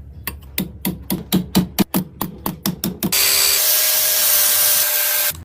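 Rhythmic hand-tool strokes on metal, about four a second, like filing or scraping during restoration work. About three seconds in they give way to a loud steady hiss that cuts off suddenly near the end.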